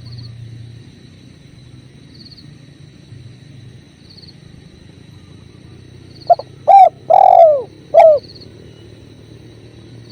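Spotted dove cooing one four-note phrase about six seconds in, the third note the longest, over a steady low rush of river water. A faint high chirp repeats about every two seconds.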